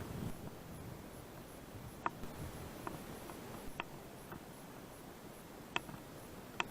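Mountain bike rolling over a rough gravel forest road: a low rumble with a few sharp clicks and rattles at irregular gaps, a faint high ticking underneath.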